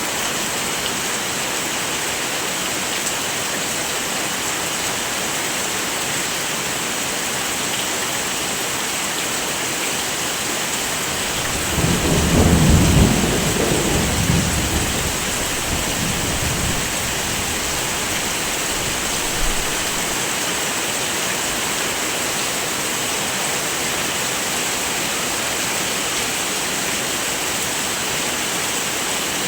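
Heavy rain falling steadily, with a roll of thunder rumbling in about twelve seconds in and fading away over the next few seconds.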